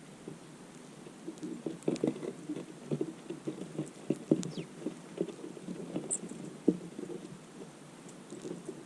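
Birds feeding on scattered seed, making irregular soft taps and patter, with a few faint high chirps, one a short falling note about halfway through.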